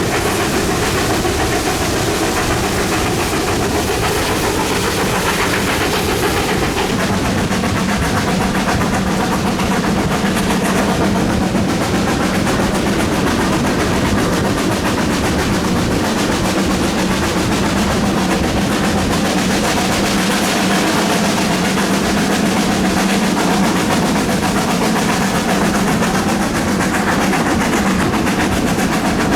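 GWR Manor-class 4-6-0 steam locomotive 7820 Dinmore Manor, a two-cylinder engine, working a train: a loud, steady running sound of locomotive and train on the rails. A low steady hum joins about seven seconds in.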